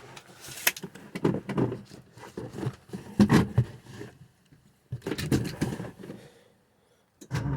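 Cold Ford 351 Cleveland V8 with Holley Sniper fuel injection cranking in two stumbling attempts, with uneven firing. It catches and settles into a steady running rumble near the end.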